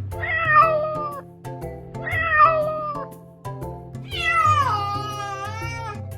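A domestic cat meowing three times: two short meows, then a longer one that slides down in pitch, over background music.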